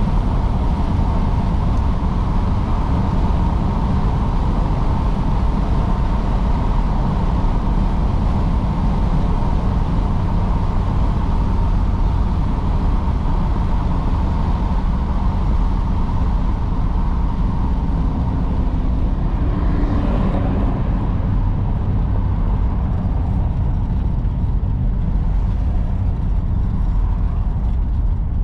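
1953 Oldsmobile Super 88 under way: a steady low drone of its Rocket V8 mixed with road and wind noise.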